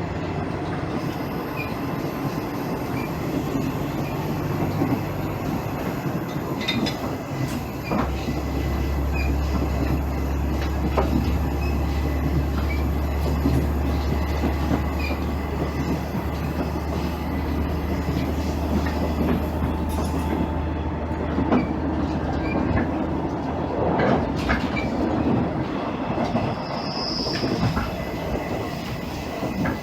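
Inside a JR East KiHa 110 series diesel railcar (KiHa 112-103) running along the line: the diesel engine drones steadily under the floor while the wheels click over rail joints. A strong low hum comes in about 8 seconds in and drops away near the end, and there is a short high squeal near the end.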